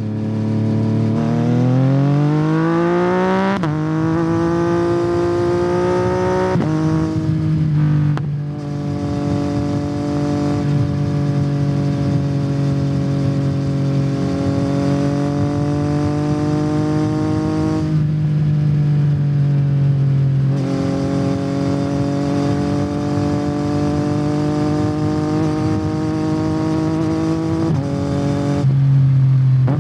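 2021 Yamaha MT-09's inline three-cylinder engine through a Yoshimura R77 carbon exhaust, accelerating hard with its pitch rising, then stepping down through a few quick upshifts in the first eight seconds or so. It then settles into steady cruising, with small changes in throttle and another shift near the end.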